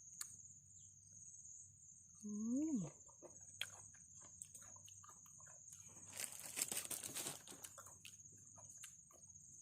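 Crickets chirping steadily in the background, with small clicking eating sounds as raw vegetables and salad are chewed, a short hummed vocal sound between, and a louder noisy crunching burst about six seconds in.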